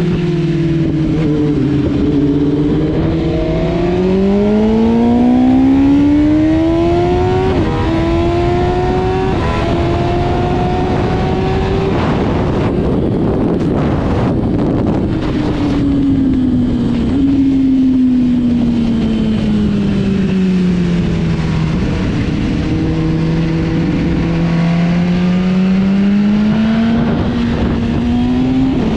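Sport motorcycle engine under way on a race track. The revs climb in steps as it shifts up, fall away through the middle, and climb again near the end, over steady wind rush.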